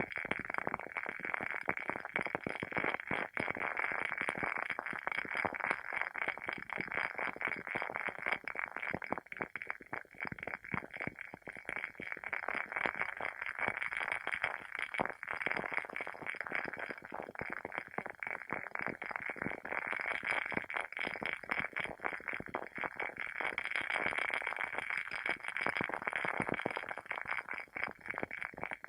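Wooden wick of a WoodWick candle burning with a continuous, rapid crackle, like a small fire.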